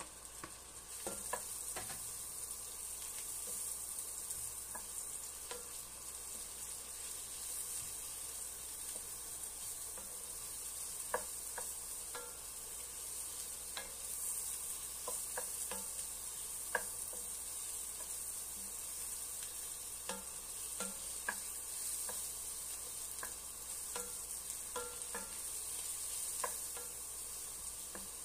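Sliced mushrooms sizzling as they fry in an enamelled pan, with a steady hiss. A wooden spatula stirs them, giving scattered light knocks and scrapes against the pan and a few sharper ones.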